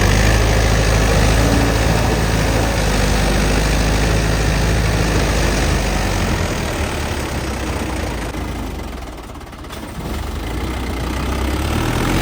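Tractor diesel engine running at idle. It fades somewhat past the middle and picks up again near the end.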